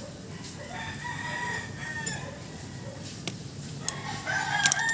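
Long, drawn-out animal calls, heard twice, with a few sharp clicks between them.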